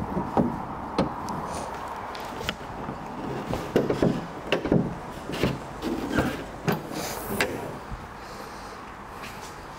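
A run of sharp clicks and knocks, about a dozen over eight seconds, from a car's doors, latches and interior fittings being handled, over a steady low background hum.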